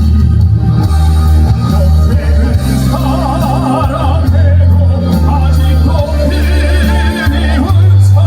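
Live performance music: a backing track with a steady, loud bass line, and a baritone singing with wide vibrato from about three seconds in.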